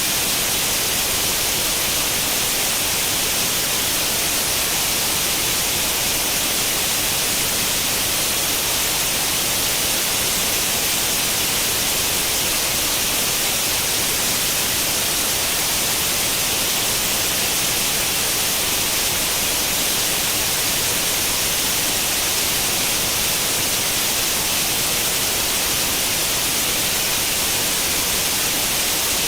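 Steady hiss of white noise in the manner of an old tube television's static on an empty channel, even and unchanging, brightest in the high frequencies.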